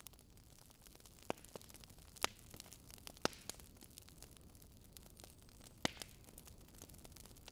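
Campfire crackling softly: scattered sharp pops and snaps from the burning wood, four of them louder than the rest, over a faint steady hiss.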